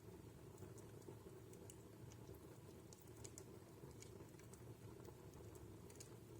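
Wood fire burning in a fireplace, faint: irregular small crackles and pops from the burning logs over a steady low rumble.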